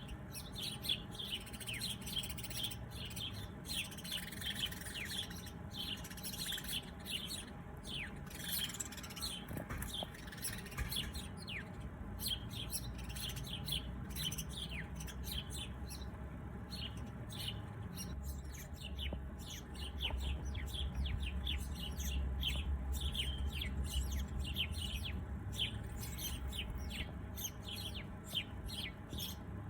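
Many small birds chirping, a steady dense stream of short, quick, downslurred chirps. A low rumble rises in the background about two-thirds of the way through.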